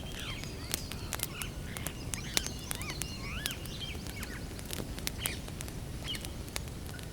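Wood campfire crackling with frequent sharp pops over a low steady rumble, while birds chirp in the background, mostly in the first half.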